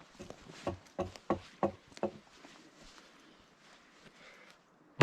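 A quick run of knocks on wood, about three a second, dying away after about two seconds, then one sharp louder knock at the very end.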